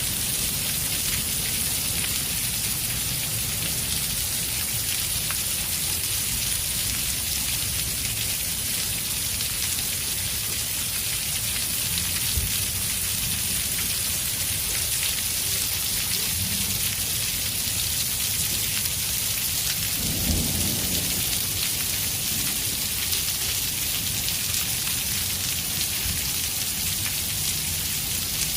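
Hail and heavy rain pelting a vehicle, heard from inside as a steady, dense hiss, with a low rumble about twenty seconds in.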